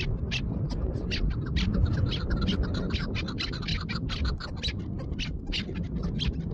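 Chukar partridge calling: a rapid series of short, clucking notes, about three or four a second, over a low rumble.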